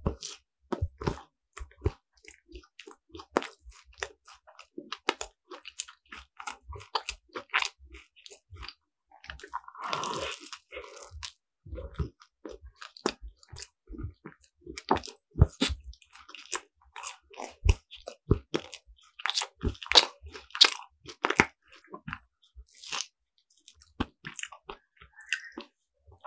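Crisp croffle being bitten and chewed close to the microphone: irregular sharp crackling crunches mixed with softer wet chewing, bite after bite.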